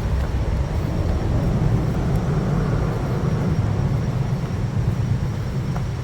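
Steady low rumble of traffic on a busy highway.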